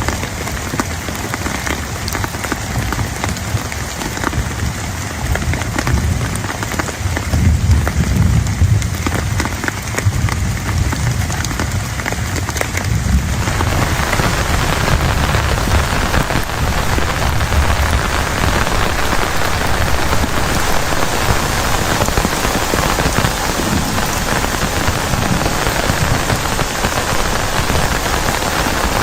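Heavy rain drumming on a plastic tarp, with a low rumble in the first half. About halfway through, the rain turns denser and louder and stays that way.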